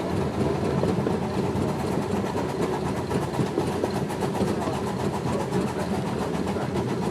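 Steady rumble and rattle of a small steam train in motion, heard from aboard one of its passenger cars.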